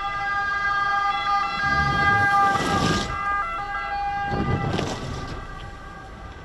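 Emergency vehicle siren sounding, its steady tones shifting pitch a few times, with two swells of rushing noise about two and a half and four and a half seconds in.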